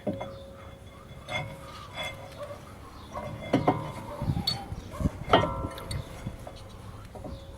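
Metal tools and parts clinking and knocking as they are handled, with two louder metallic strikes that ring briefly.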